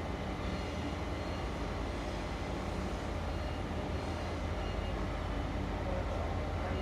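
Stationary railway locomotive running with a steady low hum, growing slightly louder toward the end.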